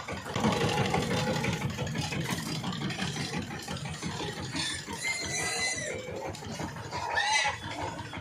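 Power tiller's diesel engine running with a steady, rapid chugging. Brief high-pitched squeaks come in about five and seven seconds in.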